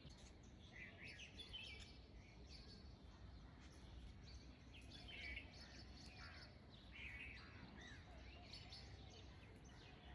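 Near silence: faint, scattered bird chirps over a low steady hum.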